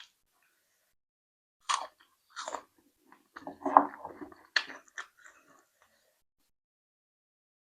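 Close-up mukbang eating sounds: a person biting and chewing with a few crunches, in a short run of separate mouth noises between about two and five seconds in, the loudest near the middle.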